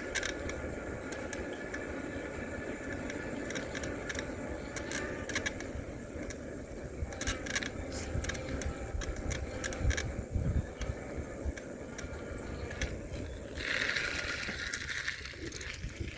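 Electric-assist bicycle rolling along a park path, with scattered rattles and clicks from the bike over a steady low rumble. A brief higher-pitched hiss comes near the end.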